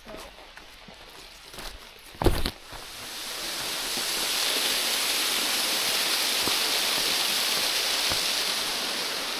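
Mountain stream rushing, a steady hiss of running water that swells in about two and a half seconds in, after a couple of brief knocks.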